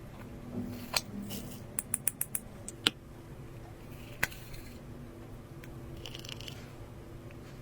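Slime being worked by hand, giving sharp little pops and clicks as air pockets burst: a quick run of about five near two seconds in, single pops around one, three and four seconds in, and a softer squishing hiss near the end.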